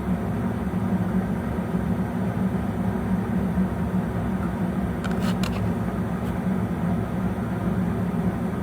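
Steady low hum, like a running motor or fan, with a few faint clicks about five seconds in.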